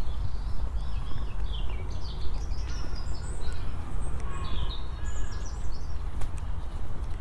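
Several small birds chirping and twittering in quick short calls, over a constant low rumble.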